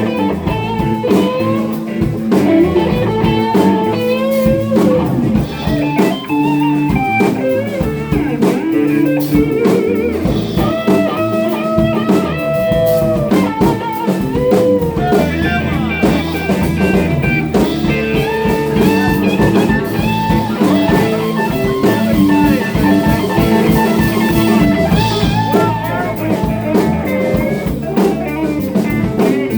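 Live blues-rock band playing: electric guitar soloing over bass and drum kit.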